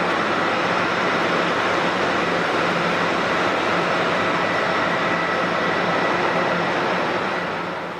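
Jet airliner's engines running, a loud steady noise with a steady high whine in it. The level drops off near the end.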